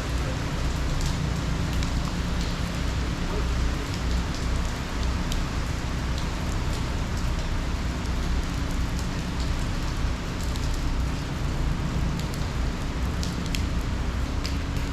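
Steady heavy rain from Hurricane Ian, with scattered sharp drip ticks over a low rumble.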